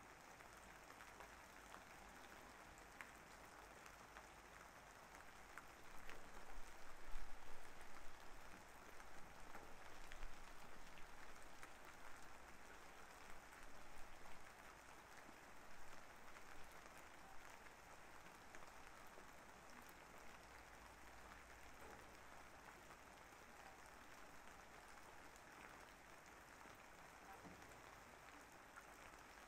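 Rain falling and pattering steadily. It grows louder and more uneven from about six seconds in until about seventeen seconds, then settles back to a soft, even patter.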